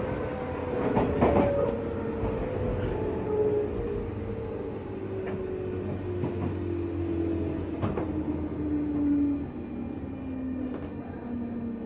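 Interior running sound of a JR West 201 series motor car: the traction motors and gears whine, falling steadily in pitch as the train slows, with a few sharp wheel clacks over rail joints.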